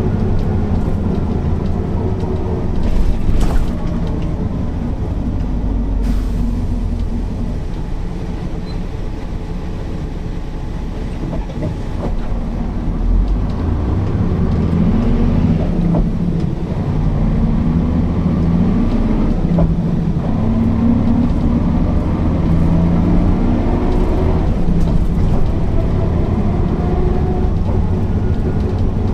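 Mercedes-Benz O408 bus's six-cylinder diesel engine under way: the engine note falls in the first seconds as the bus slows, with a couple of sharp knocks about three and six seconds in. From about halfway the note rises and drops again and again as the bus pulls away through the gears.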